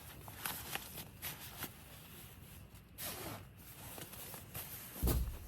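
Camping gear being packed: rustling of bags and gear with a zipper-like pull about three seconds in, and a dull thump near the end.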